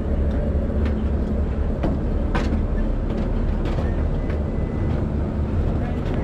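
Ferry's engines running with a steady low rumble and hum, with about ten short knocks and clanks scattered over it.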